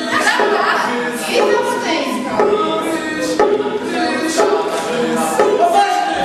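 Several voices singing an a cappella chant, repeating a short sung phrase that starts over about once a second.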